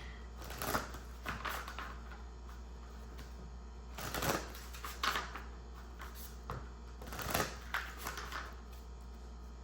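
Tarot or oracle cards being shuffled and handled: three clusters of quick papery riffles and slaps.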